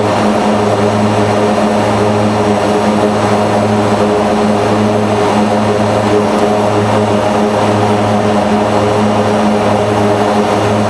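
Mitsubishi MU-2's Garrett TPE331 turboprop engines running steadily at about 100 percent rpm, their four-bladed propellers giving a loud, even drone with a strong low hum, during a ground run-up check of the SRL computer.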